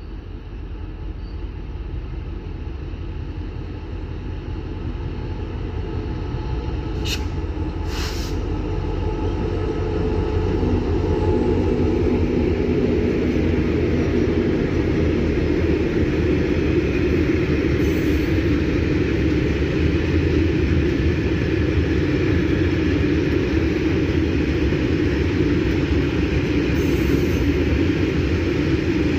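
A train approaching and then running past close by: the rumble of wheels on rail grows louder over about the first ten seconds, then holds steady. Two short sharp clicks come about seven and eight seconds in.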